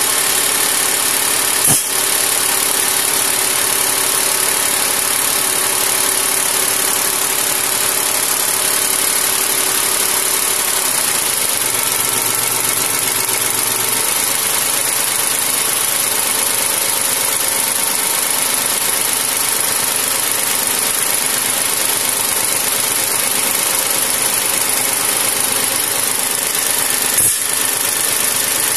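Diesel tractor engine running steadily, its speed easing down slightly about eleven seconds in. Two short sharp clicks, one near the start and one near the end.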